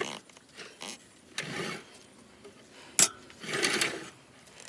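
Hand-tool work noises: a click, two short rushes of scraping or rubbing noise, and a sharp clack about three seconds in, the loudest sound.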